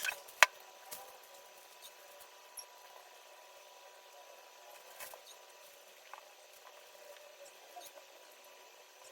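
Light clicks and taps of something small being handled, with one sharp click about half a second in, over faint steady room noise.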